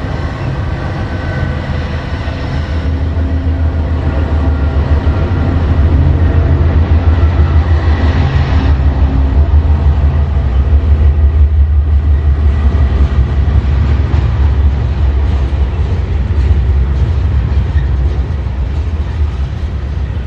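Freight train rolling past, a steady heavy low rumble of wheels on rail that grows louder about five seconds in and stays loud, with some steady humming tones in the first half.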